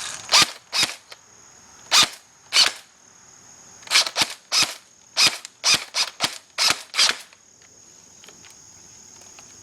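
Airsoft M16 replica firing on semi-automatic: about a dozen sharp, snappy shots in uneven groups, single shots at first and quicker strings of two to four, stopping about seven seconds in.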